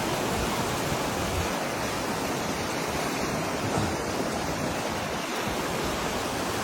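Steady roar of rushing floodwater.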